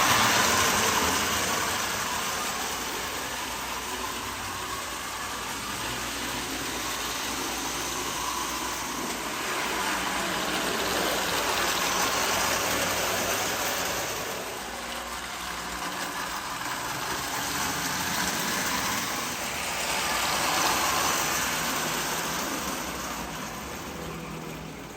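Marx toy train, a locomotive pulling tank cars, running around the track with a steady whirring clatter of motor and wheels. It swells louder and fades again as it circles past, loudest about halfway through and again near the end.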